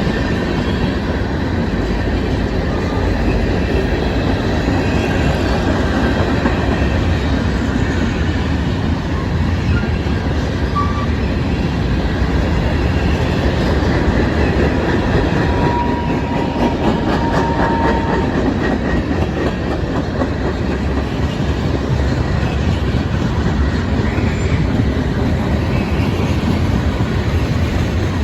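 Norfolk Southern freight train rolling past, its cars running steadily over the rails with a clickety-clack, and a brief thin squeal about halfway through.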